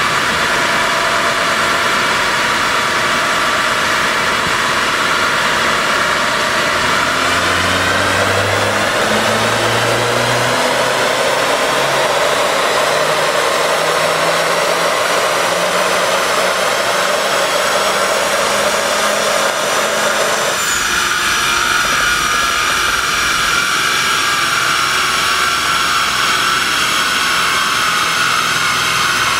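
Turbocharged Audi A4 TFSI quattro running on a chassis dynamometer under steady load, engine and rollers making a constant loud rush. Its pitch climbs slowly through the middle, then the tone changes abruptly about two-thirds of the way in.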